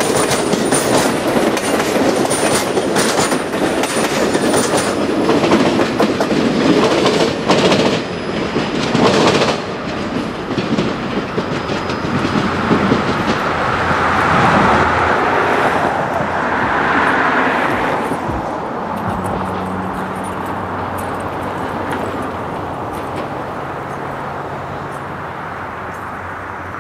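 Passenger train cars rolling past close by, their wheels clicking rapidly over the rail joints for the first ten seconds or so. The sound then turns to a rushing rumble and dies away as the train moves off, leaving a faint low steady hum near the end.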